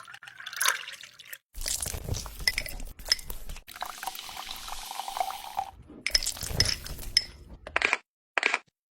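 Water splashing and dripping with small clinks of glass, in several short bits that start and stop abruptly.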